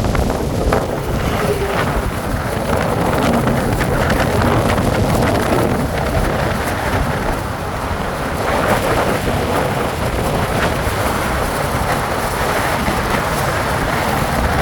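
Wind buffeting the microphone while riding a bike, a steady, loud rush with a low rumble of road and vehicle noise.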